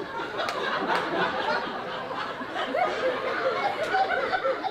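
Audience chatter with scattered chuckling and laughter, many voices at once, with a few sharp clicks about half a second in, at one second and near the end.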